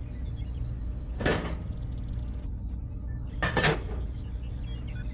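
Two short clunks, about two seconds apart, over a steady low hum.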